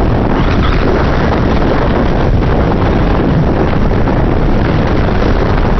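Strong wind buffeting the microphone, a loud, steady rumbling rush with no let-up.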